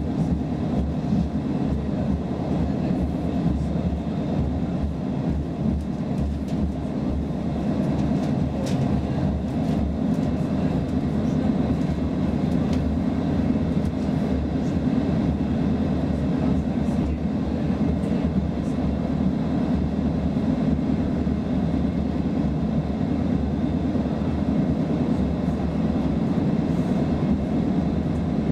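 Roslagsbanan X10p electric multiple unit running at speed, heard from inside the passenger car: a steady low rumble of wheels on the rails that holds even throughout.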